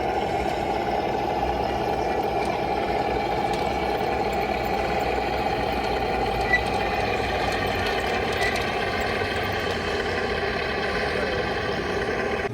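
An engine idling steadily at an even level, with a brief click about six and a half seconds in.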